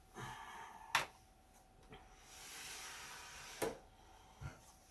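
Bench handling noises from work inside an opened electronic instrument: two sharp clicks, one about a second in and one near the end, with soft rustling and scraping between them.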